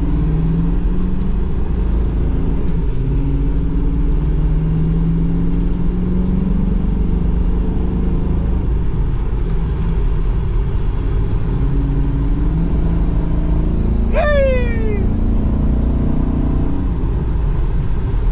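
Car driving along with a steady low engine and road rumble. About fourteen seconds in, a short high-pitched squeal falls in pitch.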